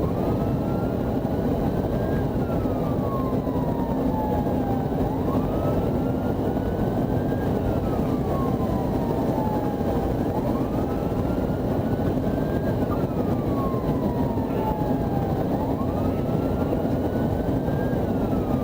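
Police car siren on a slow wail, rising quickly and falling slowly about every five seconds, over heavy steady road and engine noise.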